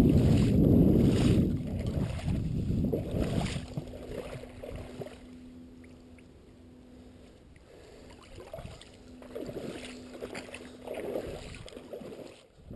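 Boat motor running with wind rushing over the camera's microphone, loud at first and fading away over the first few seconds. A steady low hum follows, with a few weaker rushes of noise before the sound cuts off near the end.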